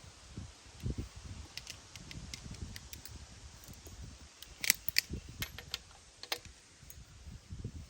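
Workshop handling noise: scattered small metallic clicks and clinks over low knocks and shuffling, with the sharpest clinks a little under 5 seconds in and again a second or so later.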